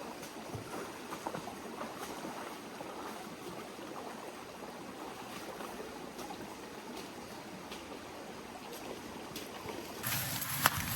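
Shallow rainforest creek water running with a steady rush and trickle, with a few faint clicks scattered through. A louder, fuller noise comes in near the end.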